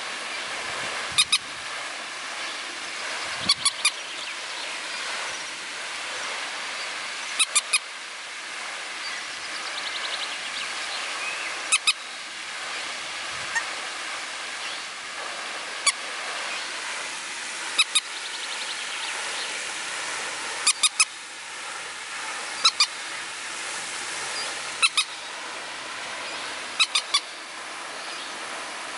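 An animal's short, sharp calls, given in quick twos and threes every couple of seconds over a steady outdoor hiss.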